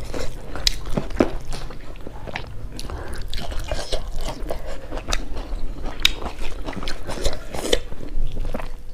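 Close, wet chewing and mouth sounds of someone eating rice and curry by hand, with irregular clicks and smacks.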